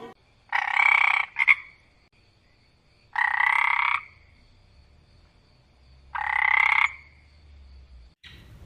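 An animal calling three times, each call a little under a second long and about three seconds apart, with a short extra note right after the first.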